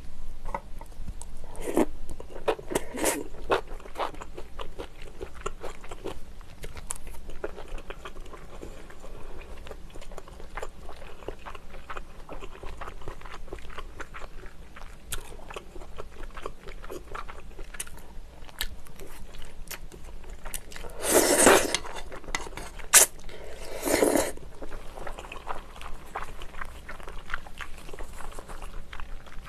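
Close-miked eating sounds of kimchi-jjim: steady chewing and biting, with many small wet crunching clicks from the kimchi. There are two louder, longer noisy sounds about two-thirds of the way through.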